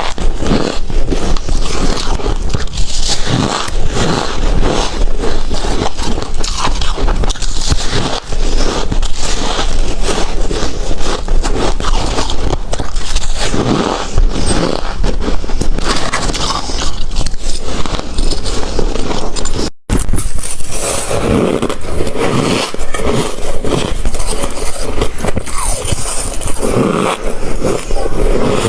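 Ice being bitten and chewed close to the microphone: a dense, continuous run of loud crunches and crackles, broken once by a momentary silence about twenty seconds in.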